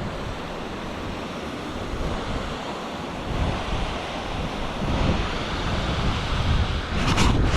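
Waterfall rushing steadily, with wind buffeting the microphone in low gusts. Near the end comes a run of sharp, scratchy noises.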